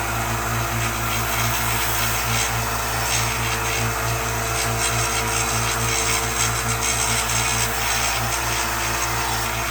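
Tool working wood: repeated scraping strokes, several a second, over a steady low motor hum.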